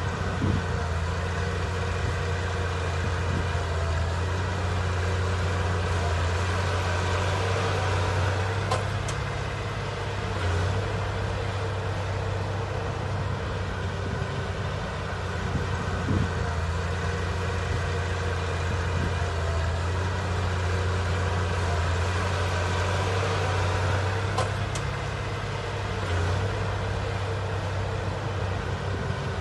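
Heavy diesel engine of an earthmoving machine running steadily with a deep hum, with brief sharp clicks twice, about 9 and 25 seconds in.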